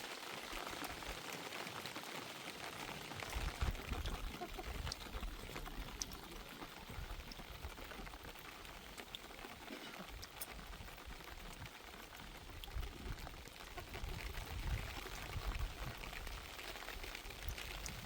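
Rain falling steadily, an even hiss with scattered sharper drop ticks and a few low thumps.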